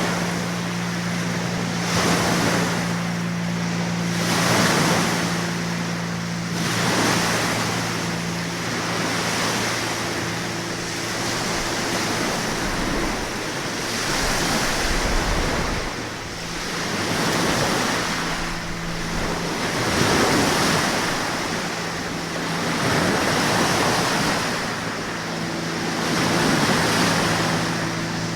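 Surf washing in, swelling every two to three seconds, over a steady low hum that fades out and back in.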